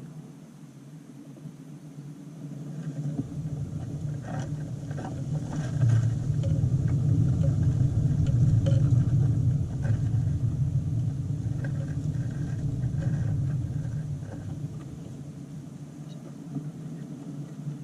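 A low rumble that swells from about three seconds in, is loudest in the middle and fades away again, with a few faint clicks over it.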